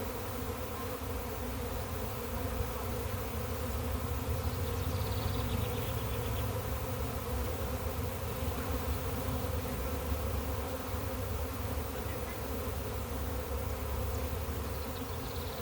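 Honey bee swarm buzzing, a steady, continuous hum of many bees in flight.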